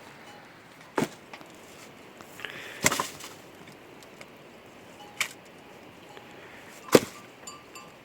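Four sharp knocks, spaced about two seconds apart, the last the loudest.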